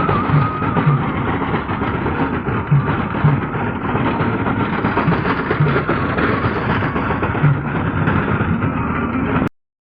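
Tractor engine running steadily under load while driving a rotavator through the soil. The sound cuts off suddenly near the end.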